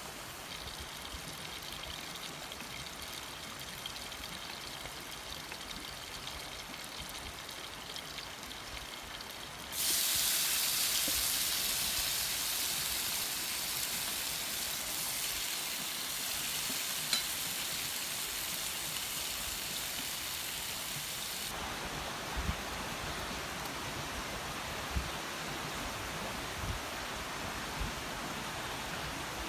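Steady hiss of water, jumping abruptly louder and brighter about ten seconds in and settling to a duller rush about twenty seconds in, with a few faint knocks near the end.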